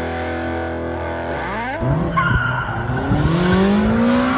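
A held electric guitar chord rings on, then about two seconds in a classic Mini's engine revs up in two rising sweeps with tyre squeal as the car is driven hard.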